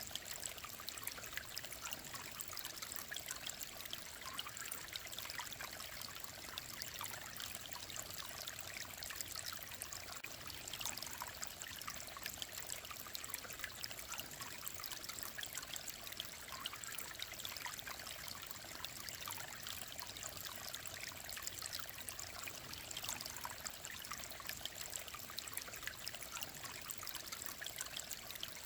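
Mountain stream running over rocks: a steady babbling and trickling of clear water, even throughout.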